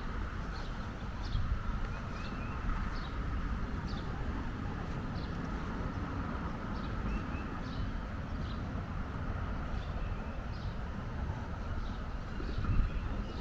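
Outdoor walking ambience: a steady hiss over a low rumble, light ticks about once a second, and a couple of faint bird chirps.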